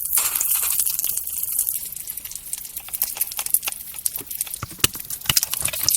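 Light rustling, then a string of small clicks and taps as miniature toy lunchbox pieces and gummies are handled.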